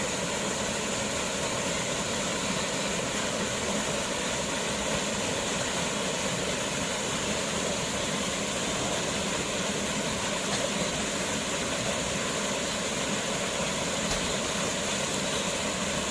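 Steady rush of water from a waterfall: an even, unbroken noise at a constant level.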